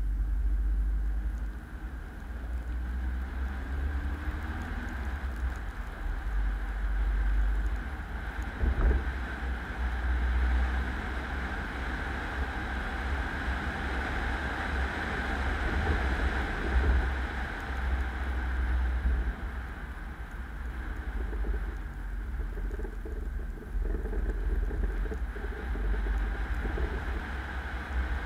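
Car driving: steady road and engine noise with a heavy low rumble.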